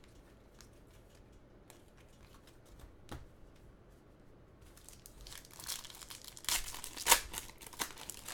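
Panini Select basketball card pack wrapper being crinkled and torn open. A few faint clicks come first. The tearing and crinkling build up over the last three seconds and are loudest near the end.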